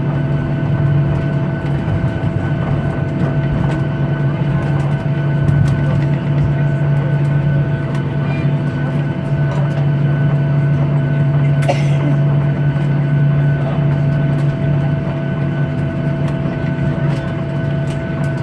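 Steady cabin noise inside a Boeing 737-800 taxiing after landing: its CFM56 engines idling, with a strong low hum and several steady tones over the rolling noise. A single short click about twelve seconds in.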